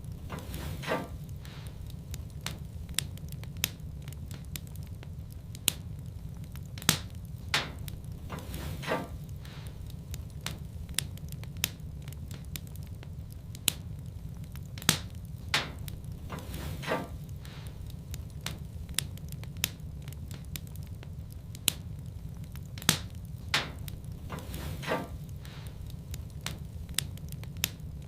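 Wood fire crackling in a fireplace: irregular sharp pops and snaps, a few loud, over a steady low rumble of the burning fire.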